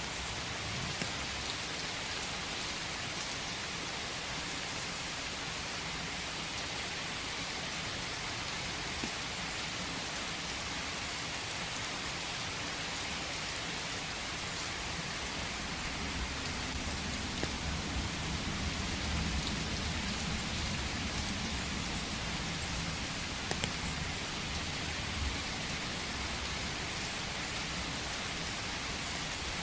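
Steady rain falling, an even hiss of many drops. About halfway through a low rumble swells for several seconds and fades again, with a few louder drop hits just after.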